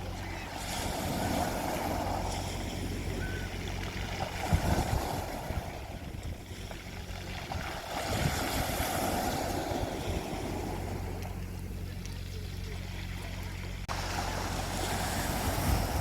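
Sea waves washing onto a beach, swelling and falling back every few seconds, over a steady low hum.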